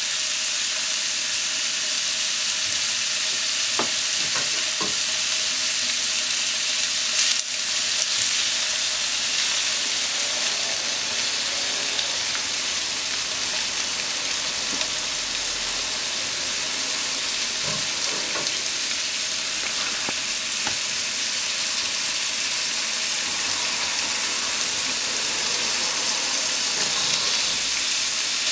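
Meat-wrapped potato sticks sizzling steadily in oil in a nonstick frying pan. A few sharp clicks, one louder about seven seconds in, as chopsticks turn the rolls against the pan.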